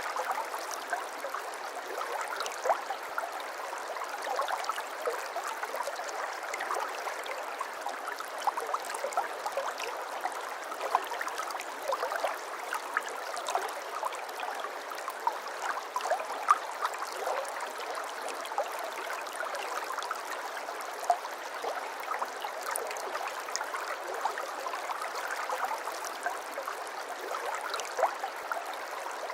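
Stream water flowing and babbling steadily, with many small splashes and trickles through a continuous rush.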